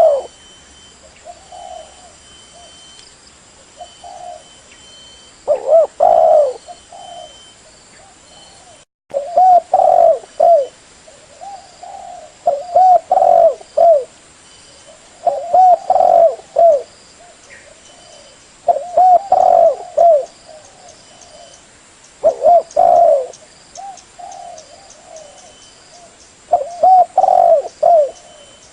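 Spotted dove (tekukur) cooing: repeated phrases of several low, curving coos, one phrase every three seconds or so.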